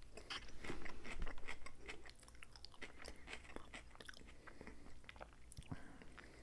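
Close-miked chewing of a mouthful of salad: wet, crisp crunches and mouth clicks, loudest in the first two seconds and then softer.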